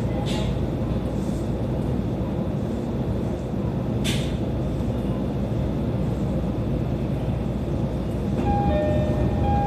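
JR East E531 series electric commuter train heard from inside the car: a steady low rumble. There is one sharp click about four seconds in, and steady whining tones join near the end.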